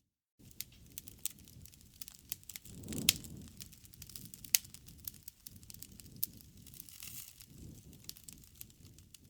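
Wood fire burning: a steady low rush of flame with scattered sharp crackles and pops. The loudest pops come about three, four and a half and six seconds in. It cuts in after a brief gap of silence at the very start.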